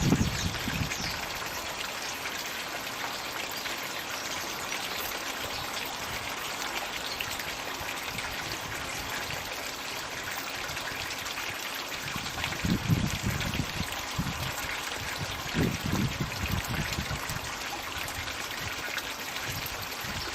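Floating 'magic bucket' pond water feature running, water pouring steadily into the pond with a continuous splashing trickle. A few brief low rumbles cut in at the start and twice around the middle.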